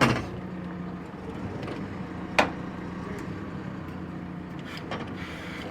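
Telehandler's diesel engine running steadily under load, with a few sharp knocks, the loudest about two and a half seconds in.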